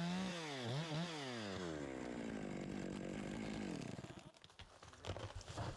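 Two-stroke chainsaw running at full throttle. About a second in, the throttle is let off and blipped, then the engine winds down and dies away about four seconds in. A few knocks follow near the end.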